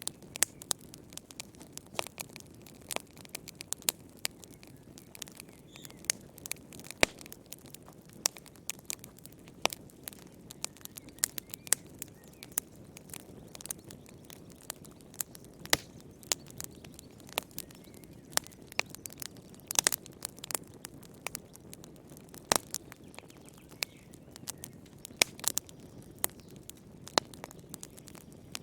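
Wood fire burning in a fireplace: irregular crackles and sharp pops over a low steady hiss of flame, a few pops louder than the rest.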